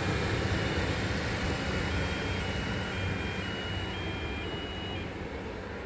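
A train passing and moving away: a steady rumble and roar of wheels on rails that grows gradually quieter. Faint high tones step between a few pitches through most of it.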